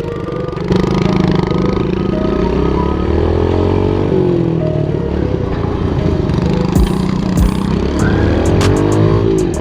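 Small 110cc single-cylinder pit bike engine being ridden, revving up and dropping back twice. A few sharp clicks join in during the last few seconds.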